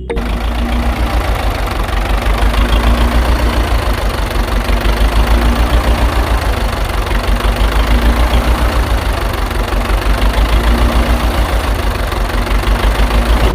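A small motor running steadily with a fast, even pulsing; it starts and stops abruptly. Faint background music plays underneath.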